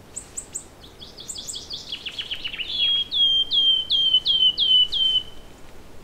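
A songbird singing one long song. It opens with a few very high notes, runs into a quick series of falling notes, then closes with about seven loud notes in a row, each slurring downward. The song ends about five seconds in.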